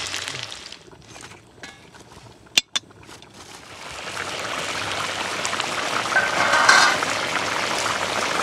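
Green banana chunks sizzling in hot oil in a wok, fading out within the first second; two sharp clinks about two and a half seconds in; then a steady hiss of the banana-and-chicken masala gravy simmering builds from about four seconds.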